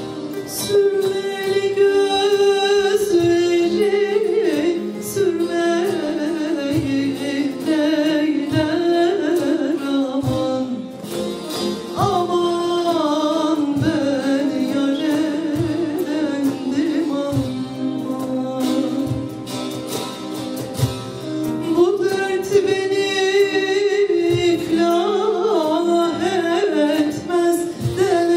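Live Turkish folk song (türkü) with a wavering, ornamented vocal melody over plucked saz (bağlama) accompaniment and regular low drum beats.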